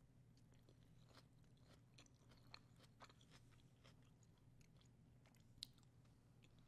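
Close-miked chewing of a crunchy hard-shell taco: quiet, irregular crisp crunches and mouth clicks, with one sharper crunch about five and a half seconds in.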